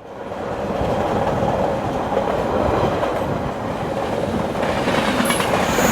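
Train rolling along the rails with a clickety-clack, fading in over the first second, with a high metallic squeal near the end.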